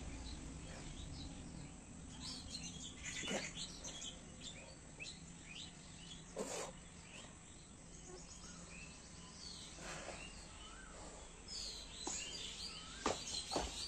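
Birds chirping and calling, many short high chirps overlapping one another, with a few sharp knocks near the end.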